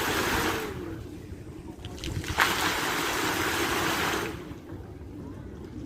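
Waterfall water splashing and rushing in two surges, the second running for about two seconds from just before halfway, over a steady low background rumble.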